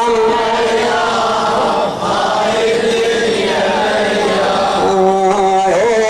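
Choir-like chanted vocal intro to a Husseini latmiya (Shia lament): long held notes that waver slightly, shifting to new notes near the end.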